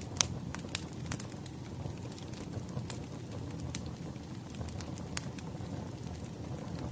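Wood fire crackling: a steady low rumble of burning logs with sharp pops and snaps every second or so, the loudest just after the start.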